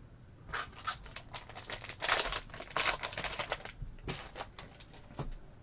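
Trading cards being handled: a quick run of rustles and clicks that starts about half a second in, with a few more near the end.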